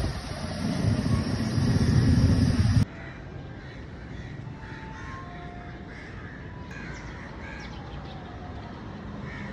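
A loud low rumble that cuts off suddenly about three seconds in, followed by crows cawing several times over a quiet background.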